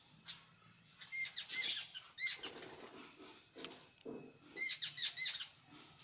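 Jungle babblers calling: harsh, squeaky chattering in bursts of quick repeated notes, about a second in, around two seconds, and again near the five-second mark. A single sharp click comes about three and a half seconds in.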